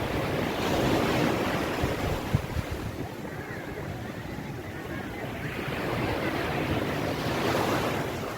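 Ocean waves washing onto a beach, the surf swelling about a second in and again near the end, with wind rumbling on the microphone.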